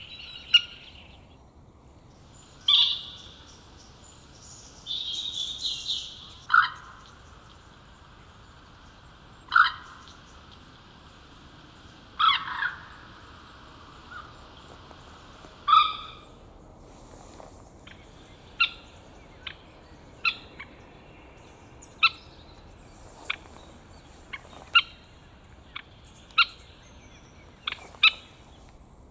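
A bird's short, sharp calls, spaced a few seconds apart at first and coming shorter and faster, about one a second, in the second half.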